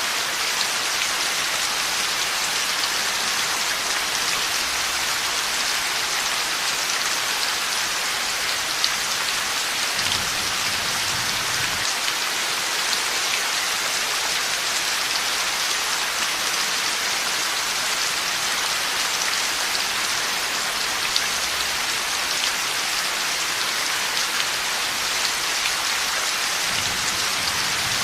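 Heavy, steady rain falling and pattering on surfaces, with a faint low rumble about ten seconds in and again near the end.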